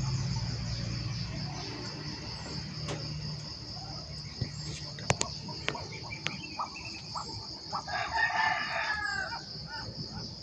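A rooster crowing once, about eight seconds in, over a steady high drone of insects. A few sharp clicks sound near the middle.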